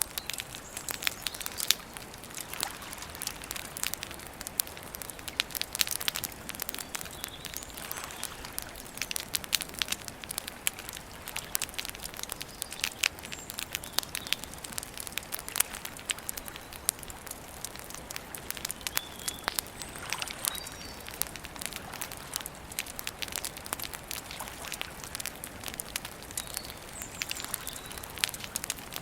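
Wood campfire burning with constant irregular crackling and sharp pops over a low hiss, and a few faint high bird chirps now and then.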